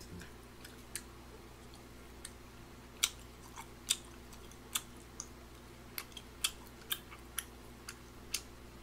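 Mouth chewing a mouthful of rabokki (rice cakes and ramen noodles): scattered soft, wet clicks and smacks, roughly one a second, over a faint steady hum.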